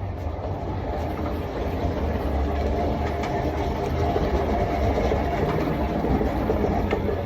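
Snapper Comet riding mower's engine running steadily as the mower moves, growing louder over the first couple of seconds.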